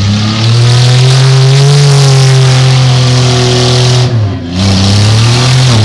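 Demolition derby car engine revving hard and held high, easing off briefly about four seconds in and then climbing again.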